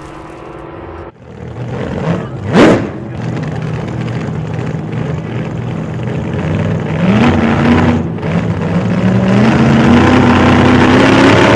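A vehicle engine running under load, its pitch stepping up about two-thirds of the way through and then climbing steadily as it accelerates. There is a brief, loud whoosh a couple of seconds in.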